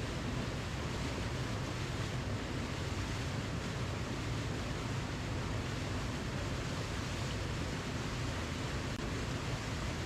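Waterfall rushing steadily: a constant, unbroken noise of falling water, heaviest in the low range.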